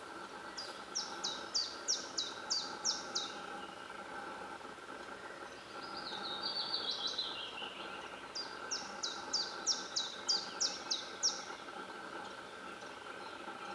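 Woodland birds calling: two runs of about eight high, down-slurred notes, about three a second, with a softer descending trill between them about six seconds in, over a steady faint hum.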